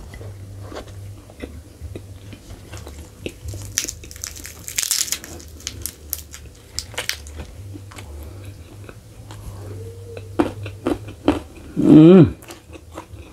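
A person eating close to the microphone, chewing and biting on roasted sheep-head meat with many wet mouth clicks, smacks and crunches, including a denser crackly stretch a few seconds in. Near the end there is a short hummed 'mm'.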